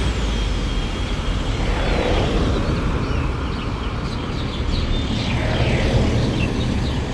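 Steady outdoor rumble of engines running, with no break or change.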